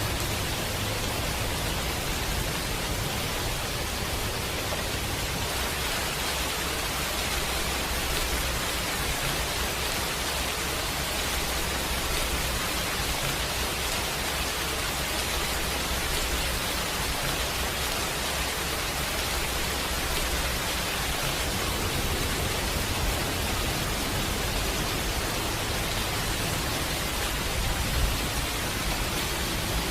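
Steady heavy rain, an even hiss with a low rumble underneath, and a single brief low thump near the end.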